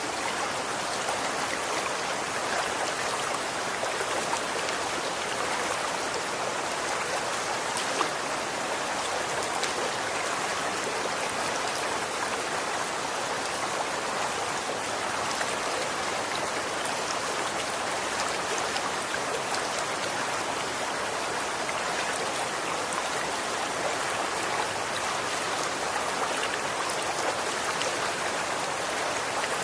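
Running water flowing steadily, a constant rushing with fine splashing and trickling detail throughout.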